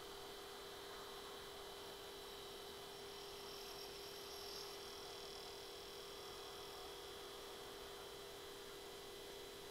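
Faint steady electronic hum, one unchanging tone with a few higher whining lines, over low hiss.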